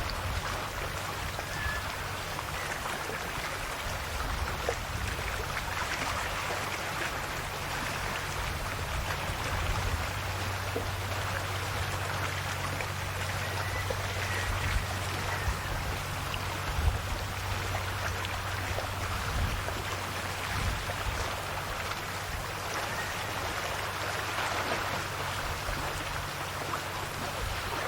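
Calm Adriatic sea waves washing in, a steady watery hiss with small splashes. A low hum runs underneath.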